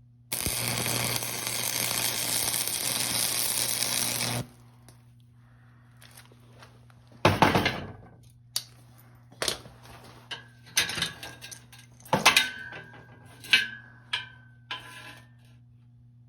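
A steady noise runs for about four seconds and cuts off, followed by a string of sharp metallic clinks and knocks, several of them leaving a brief ringing tone.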